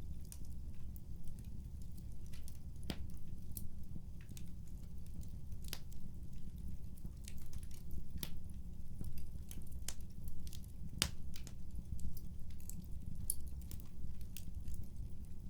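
Wood fire crackling: irregular sharp pops and snaps over a steady low rumble, with a few louder pops scattered through.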